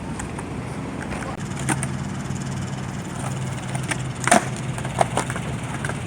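Skateboard tricks: a steady rolling rumble broken by sharp clacks of the wooden board striking the pavement, the loudest a little past halfway, followed by two quick ones close together.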